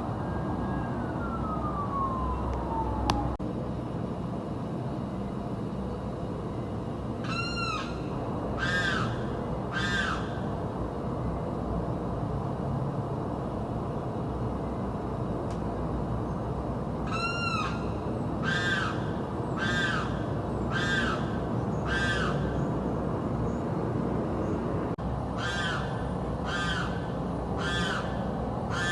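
A bird screaming: loud, short, harsh calls, each arching up and down in pitch, given in runs of three to five about a second apart, over a steady background hum.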